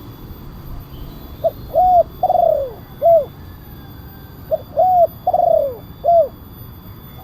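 Spotted dove (tekukur) cooing: two phrases of four arched coos, each phrase with a longer third note that falls away, a few seconds apart. A loud, deep-voiced 'kuk 1' song type used as a lure call for wild doves.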